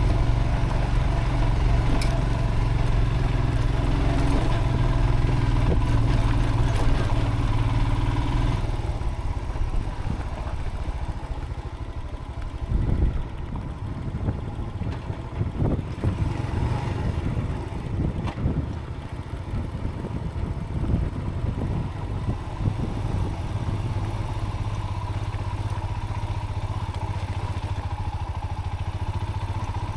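Motorcycle engine running while riding a rough dirt track: steady for the first several seconds, then uneven through the middle with many clattering knocks, and steady again near the end.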